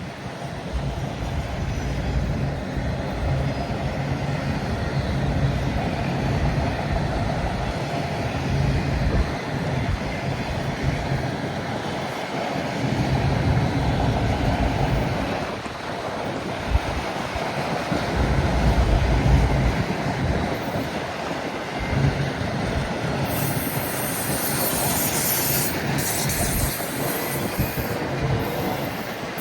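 Freight train passing slowly, its cars rumbling and clacking over the rails, while gusty wind buffets the microphone in irregular low thumps.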